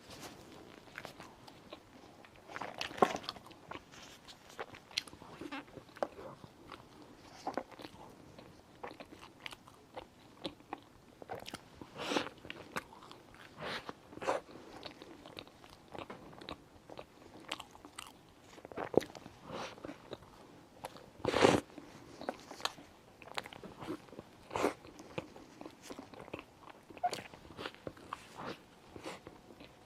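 Close-miked eating sounds: irregular bites, chewing and wet mouth clicks from someone eating a chocolate lava cake, with two louder smacks, about 3 seconds in and about 21 seconds in.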